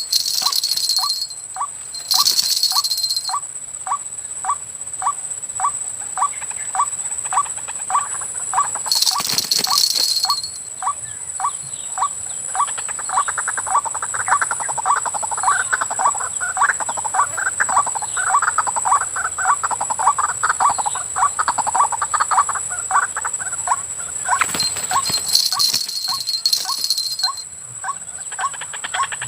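White-breasted waterhen calling: a steady run of short 'ruak' notes, about two a second, growing denser and fuller from about twelve seconds in. A steady high-pitched whine runs throughout, and a few brief bursts of hiss are heard.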